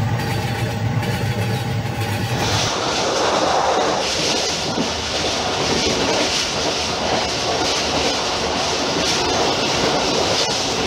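Passenger train rolling at speed, heard from the rear of the last coach: a steady rumble and rattle of wheels on the rails. It takes over about two seconds in, when a short stretch of intro music stops.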